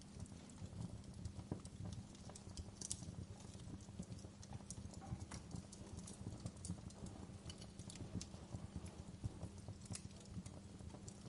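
Wood fire in a fireplace crackling, with many small irregular pops and snaps over a low, steady rumble of the burning.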